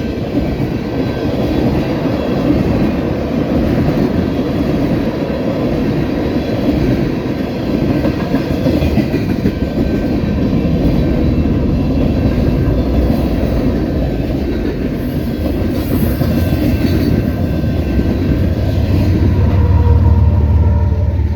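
Freight train cars rolling past, with a steady rumble and rattle of steel wheels on the rails. A deeper rumble swells near the end.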